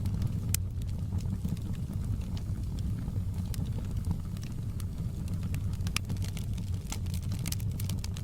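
Log fire crackling: irregular sharp pops and snaps over a steady low rumble of the burning flames.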